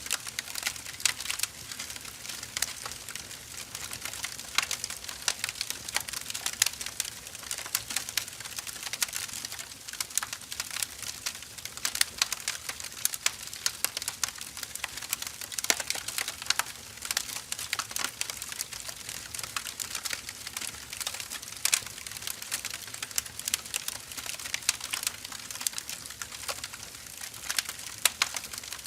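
Firewood burning, crackling steadily: many small snaps over a soft hiss, with a few louder pops scattered through.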